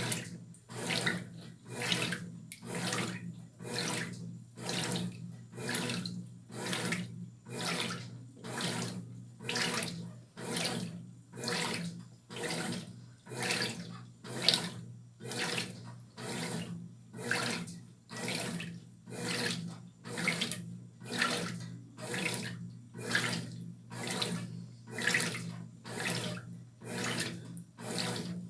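Brastemp Tira Manchas Pro 12 kg top-load washing machine agitating a load of clothes: water sloshing in even, repeated swishes as the wash action turns back and forth, over the steady hum of the motor.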